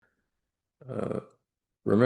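A man's brief throaty vocal noise, like a grunt or throat sound, lasting about half a second, then speech begins near the end.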